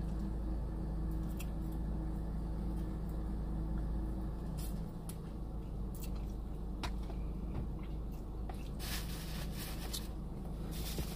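Close-miked chewing and mouth sounds of someone eating, with scattered sharp clicks and, near the end, a few seconds of crunchy, rustling noise, over a steady low hum.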